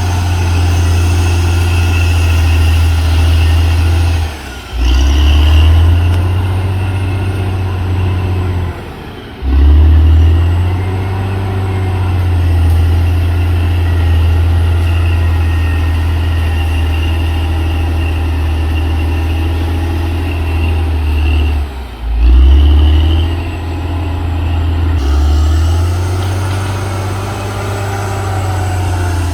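Diesel engine of a CAT D6R XL bulldozer running with a steady low drone. The sound dips briefly three times, about 4, 9 and 22 seconds in, and each time surges back louder.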